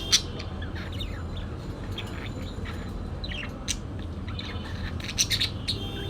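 Parakeet chirping and squawking in short, scattered calls, with a busier run of calls about five seconds in.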